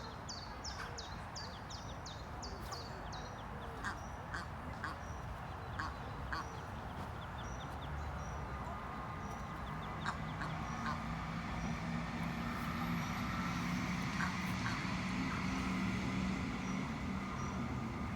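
Ducks: ducklings peeping in a fast run of high, falling chirps during the first few seconds, with quacking and scattered short calls after that. A low steady hum comes in about halfway.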